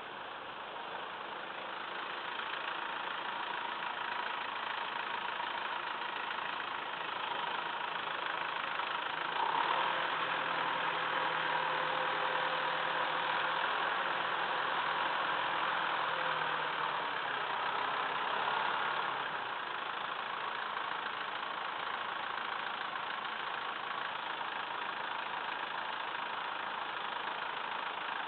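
Massey Ferguson 2635 tractor's diesel engine running steadily, working harder and louder for several seconds in the middle.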